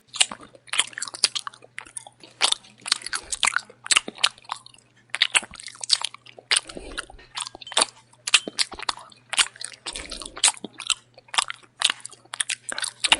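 A person chewing noisily close to the microphone, crunching and smacking the lips in a dense, irregular run of wet clicks.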